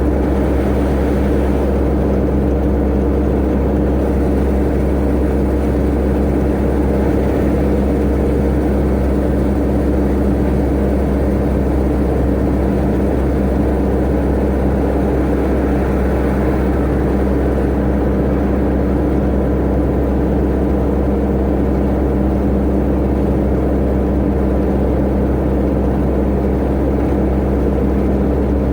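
Tata Ace mini truck's engine running at a constant, unchanging drone with road noise, heard from inside the cab while driving.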